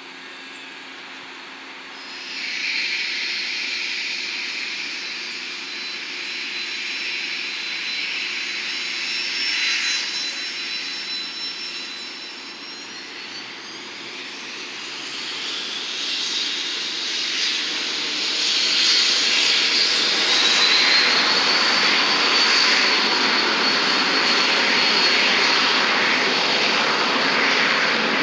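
Jet aircraft engines running, with a high whine over the engine noise. The noise comes up sharply about two seconds in, and the whine rises in pitch twice as the engines grow louder in the second half.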